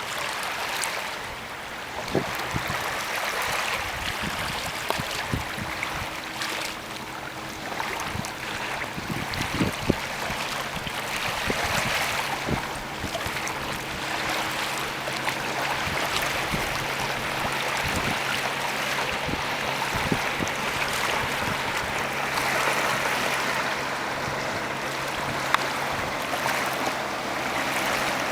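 Water rushing and splashing along a sailboat's hull as it moves under sail, with wind, occasional short splashes or knocks, and a faint steady low hum underneath.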